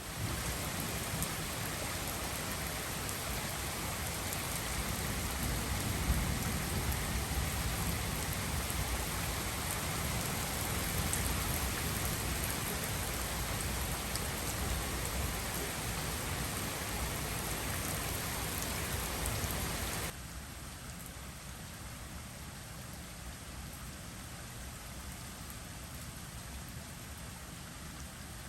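Heavy typhoon rain pouring down in a steady hiss, with a deep low rumble under it. About two-thirds of the way through it cuts abruptly to a quieter, thinner rain.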